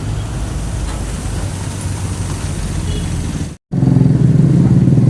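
Motor vehicle engines running in traffic. A hard cut about three and a half seconds in is followed by a louder, steady engine hum close by.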